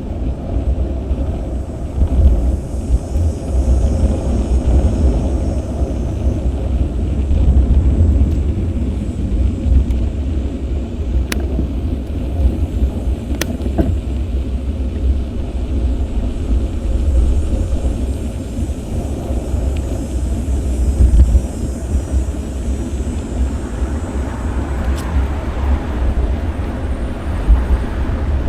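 Steady low rumble of wind buffeting an action camera's microphone while cycling, mixed with car traffic, with a couple of sharp clicks about halfway through.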